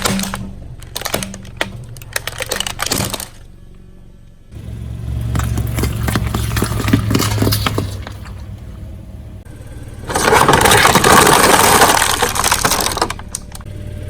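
Car tyre rolling over and crushing brittle objects: scattered sharp cracks and crackles, a low engine hum in the middle, then a loud, dense crunching burst lasting about three seconds.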